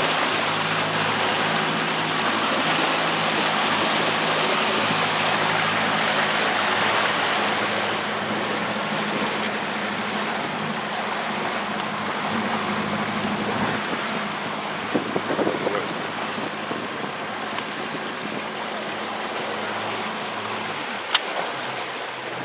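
A motor boat's engine running steadily under the rush of water and wind on the microphone. The engine's note shifts about two-thirds of the way through, and a single sharp click comes near the end.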